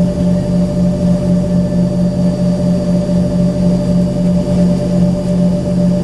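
Steady drone of the Embraer ERJ-135's rear-mounted Rolls-Royce AE3007 turbofan engines heard inside the cabin, with a strong low hum, a steady higher tone and a slight pulsing beat in the hum.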